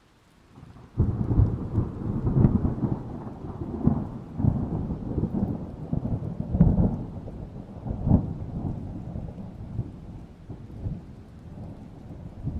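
A thunderclap breaks about a second in and rolls on as a low rumble with several stronger crashes, slowly fading away.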